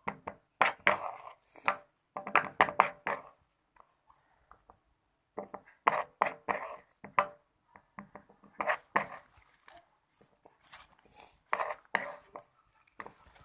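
Sticky milky slime of white glue, liquid soap and activator being stirred and folded in a container: spells of quick wet clicking and squelching with short pauses between. The mixture is still setting.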